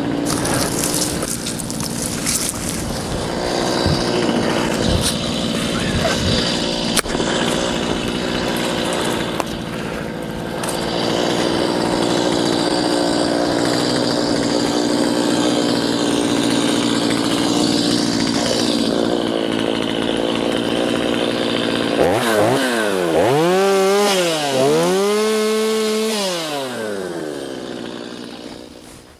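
Stihl MS210 two-stroke chainsaw running steadily under load, cutting wood. About three quarters of the way through it comes free of the cut and revs up and down several times, then winds down near the end.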